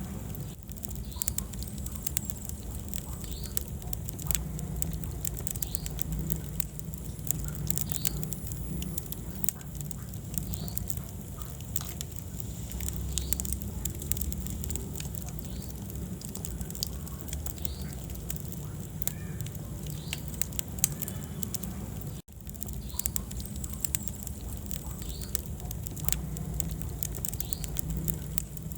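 Wood fire burning in a fireplace: a steady low rumble of flames with frequent sharp crackles and pops. The sound cuts out for an instant about two-thirds of the way through.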